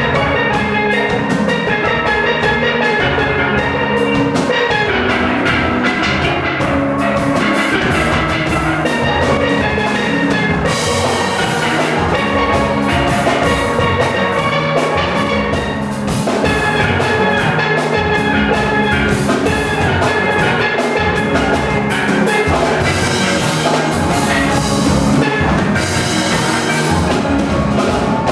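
A steel orchestra playing: many steel pans carrying melody and harmony over a drum kit keeping a steady beat.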